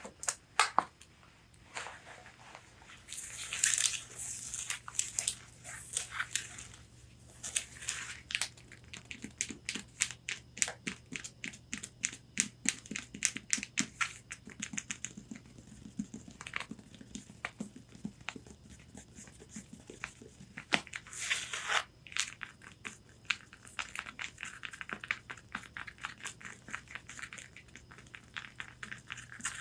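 Long fingernails tapping and scratching on a corset bodice: quick runs of sharp taps, broken by a few longer stretches of scratching across the fabric.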